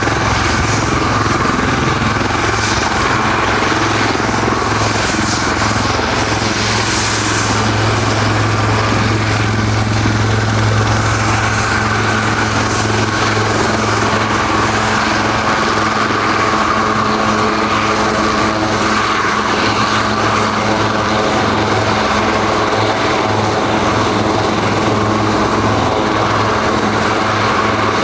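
Helicopter running close by, its rotor and engine giving a loud, steady drone. A deep low tone dominates the first half and eases off about halfway through, as a slightly higher hum takes over.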